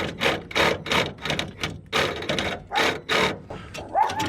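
Reciprocating saw cutting through the spare tire hanger in short, uneven bursts.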